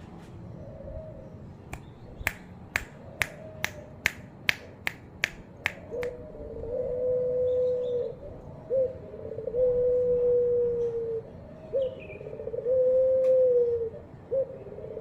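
Puter pelung dove (Barbary dove) cooing: three long, drawn-out coos about two seconds each, every one opening with a short upward flick. They are preceded by a run of about ten sharp clicks, roughly two a second, near the start.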